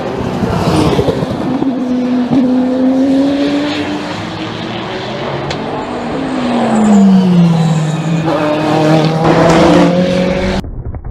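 Race car engines passing one after another trackside, their notes falling in pitch as each goes by. The sound cuts off suddenly near the end.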